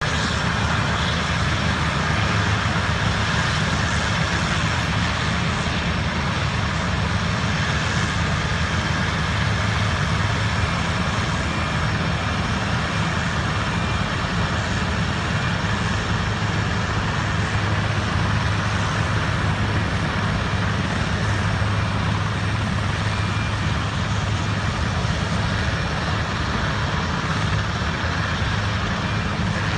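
Helicopter turbine engines and rotors running steadily ahead of takeoff: a constant high whine over a low drone.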